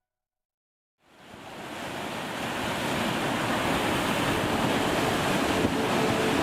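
Ocean surf: after about a second of silence, a steady wash of breaking waves fades in and builds to a constant roar.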